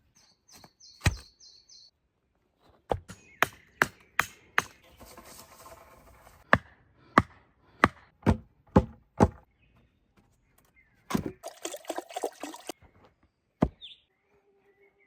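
Wood being struck by a tool in about a dozen sharp, irregular blows. A short burst of rustling and crackling comes between the last blows, and a bird chirps briefly near the start.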